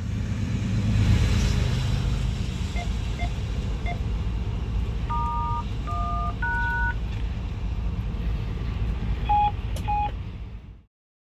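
Steady low rumble of a locomotive cab with a radio sending touch-tone (DTMF) dialing tones over it: three short beeps, then three longer two-tone keypresses, then two more beeps. The sound cuts off suddenly near the end.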